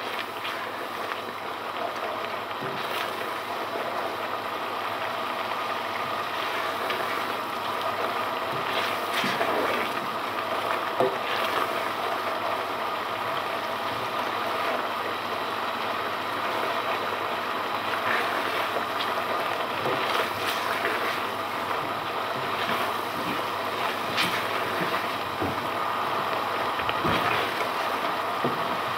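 Thick curry masala sizzling and bubbling in a nonstick pot over a high gas flame, the water cooked off so the masala is now frying. A spatula stirs through it with occasional short scrapes against the pan, over a steady hum.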